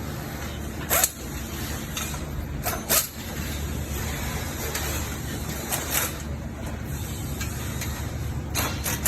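Steady low mechanical hum with a handful of short, sharp clicks and knocks scattered through it.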